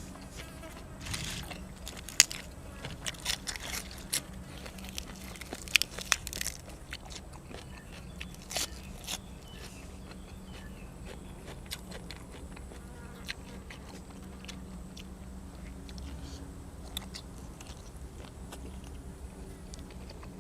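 A person eating grilled cuttlefish and raw vegetables close to the microphone: crisp biting and crunching, loudest in the first nine seconds, then quieter chewing with only the odd click.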